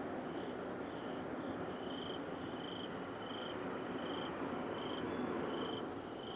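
A steady rumbling roar with no clear pattern: the unexplained noise heard coming from the sky and the east. Crickets chirp over it in a regular pulse, about one chirp every two-thirds of a second.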